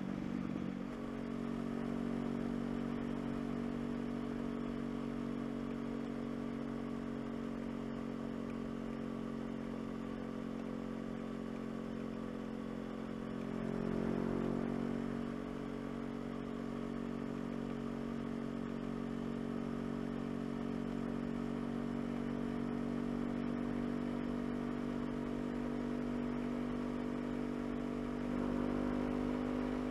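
2016 Honda CBR500R's parallel-twin engine running at steady revs on the road, with two brief rises in revs, about halfway through and near the end.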